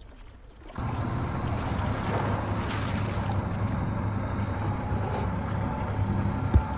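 Boat on the water: a steady low engine hum with wind and water noise, starting about a second in, and a brief knock near the end.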